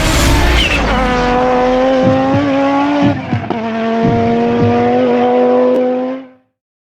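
Rally car engine held at high, nearly steady revs for about six seconds, with brief dips in pitch, then cutting off suddenly.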